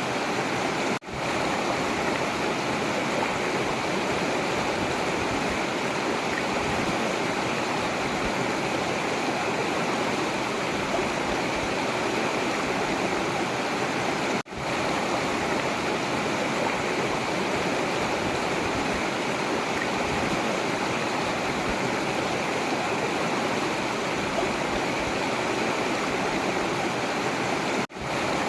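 A forest river flowing: a steady rush of running water. The sound cuts out for an instant about a second in, again midway, and once more near the end.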